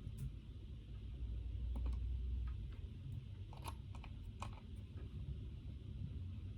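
A few scattered computer keyboard keystrokes, in small clusters about a second apart, over a steady low room hum.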